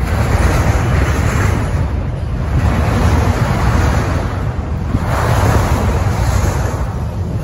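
Freight train of autorack cars rolling past: a steady rumble and hiss of steel wheels on rail that swells and fades every couple of seconds, with wind noise on the microphone.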